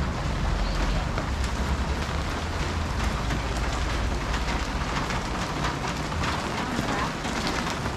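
Steady rain falling, a dense patter of drops, with a low rumble that fades over the first few seconds.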